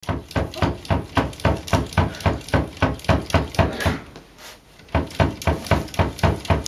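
A cat knocking on a wooden nightstand door with its paws: quick, even knocks about four a second, which stop for about a second partway through and then resume.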